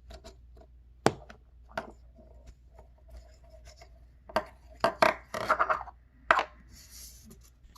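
An egg hatching: irregular taps and cracking clicks, with a thicker, louder cluster of cracks about four to six seconds in.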